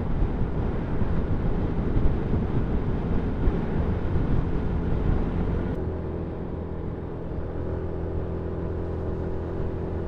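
Yamaha MT-125's single-cylinder 125cc four-stroke engine running on the move, heard with heavy wind noise. About six seconds in the wind hiss drops away abruptly, leaving a steady, even engine note.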